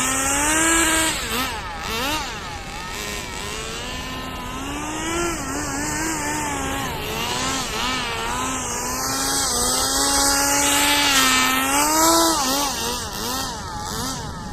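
Small engine of a rear-wheel-drive radio-controlled drift car running, its pitch rising and falling as the throttle is blipped and eased.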